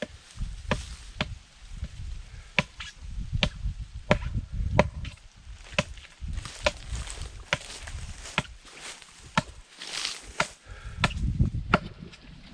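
A blade chopping notches into a coconut palm trunk: sharp, irregular strikes about one or two a second, cut as footholds for climbing the tree.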